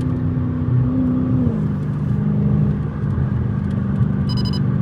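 Straight-piped Dodge Challenger Scat Pack's 6.4-litre HEMI V8 droning steadily, heard inside the cabin with the windows up; its pitch drops a step about one and a half seconds in as the revs fall. Near the end an electronic beep sounds.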